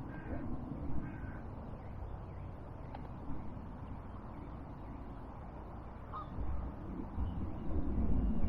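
A few short honking bird calls, two close together near the start and another about six seconds in, over a low outdoor rumble that grows louder near the end.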